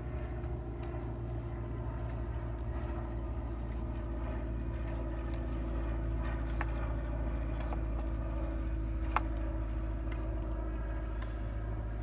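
Steady low engine drone, like a motor vehicle running, with a few sharp clicks over it; the sharpest click comes about nine seconds in.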